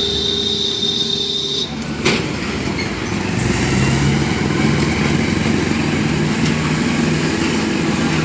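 A tractor engine running steadily, its low hum growing stronger about three seconds in. In the first second and a half a steady high tone sounds over it and cuts off suddenly, followed by a single sharp click.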